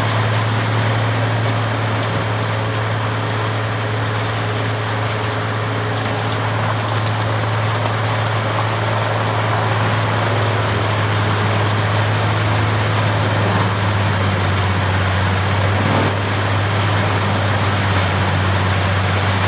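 Peterson 2710D horizontal wood grinder running steadily under load: a deep, constant diesel drone with a dense wash of grinding noise over it. A faint high whine rises about halfway through.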